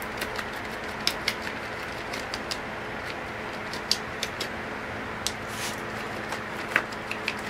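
A paintbrush tapped repeatedly onto wet spray paint on poster board, making light irregular taps, sometimes two or three close together, over a steady low hiss.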